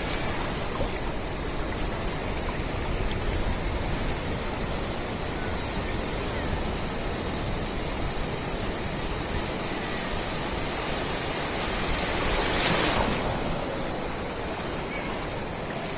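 Sea surf washing steadily on a beach, with one louder wave breaking and rushing in near the end.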